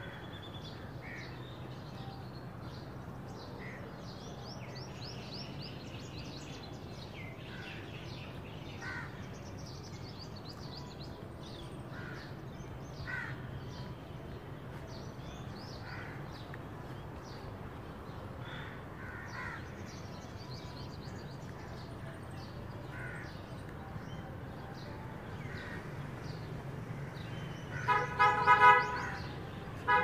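Small birds chirping on and off in short, high calls over a low steady hum. About two seconds before the end, a sudden run of much louder, pitched, harsh blasts comes several times in quick succession.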